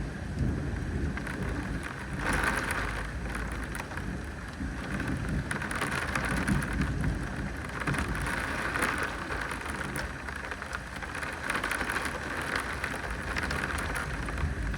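Steady rain falling during a thunderstorm, an even hiss with a low rumble underneath.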